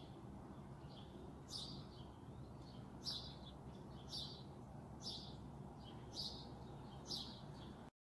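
A small bird chirping: about six short, high chirps, roughly one a second, with a few fainter ones between, over a faint steady hum.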